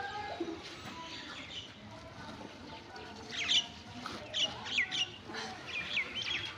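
Small birds chirping in the background, a rapid run of short, high, downward-sweeping chirps starting about three seconds in, over a low rustle.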